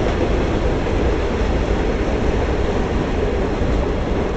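Freight train cars rolling past on the rails: a steady, deep rolling noise of wheels on track with no distinct clanks or horn.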